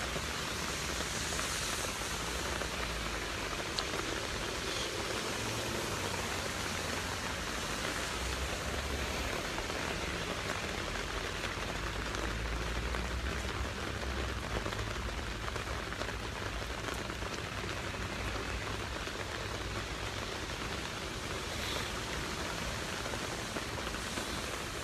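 Steady rain falling, an even hiss with a few louder drop ticks close by, over a low rumble.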